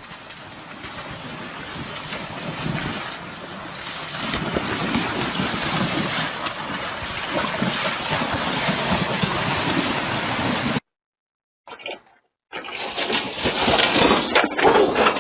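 Steady rushing noise of wind and water, slowly growing louder, that cuts off suddenly about eleven seconds in.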